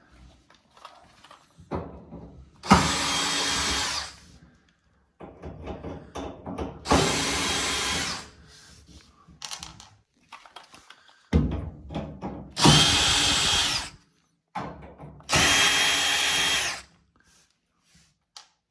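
Cordless power drill/driver spinning in four main runs of about a second each, with shorter stop-start spins and rattles in between.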